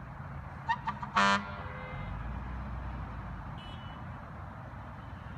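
Emergency vehicle horn giving two short toots and then one louder, longer blast, over the low rumble of a large vehicle's engine.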